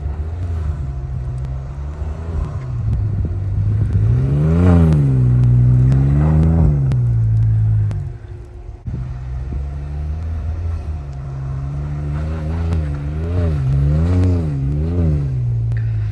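Ford 3.5 EcoBoost twin-turbo V6 through an MBRP 4-inch cat-back exhaust, revving up and down repeatedly while doing donuts. There is a long rise and fall a few seconds in, a brief drop a little past halfway, then a run of quick rev blips near the end.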